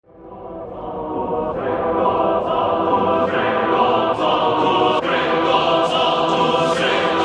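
Choral music: a choir holding sustained chords that swell up from silence over the first two seconds, then stay loud, shifting chord about every second and a half.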